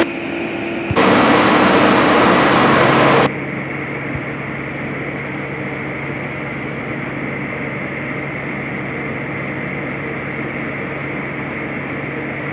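Workshop machinery running with a steady hum. About a second in, a loud hiss starts abruptly and cuts off sharply about two seconds later.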